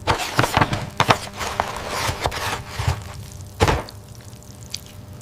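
A quick, irregular run of knocks and thumps, with a loud thud about three and a half seconds in.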